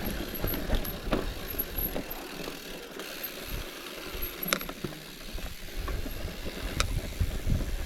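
Wind buffeting the microphone of a moving bicycle ride, easing off for a couple of seconds mid-way, with a few sharp clicks from the bike, two of them standing out about halfway through and near the end.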